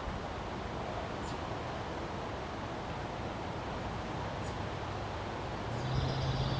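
Wind blowing steadily, a rushing noise with a rustle of leaves. Two brief high chirps sound about a second in and again halfway through. Near the end a low steady hum with a higher whine comes in.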